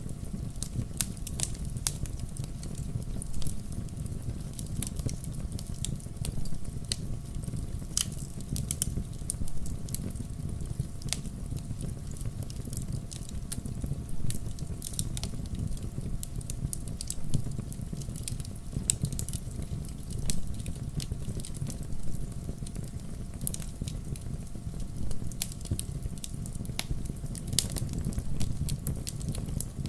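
Wood campfire crackling, with frequent irregular sharp pops and snaps over a steady low rumble of burning.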